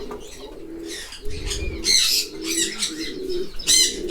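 Domestic pigeons cooing continuously, with small cage birds chirping over them in short bursts about two seconds in and again near the end.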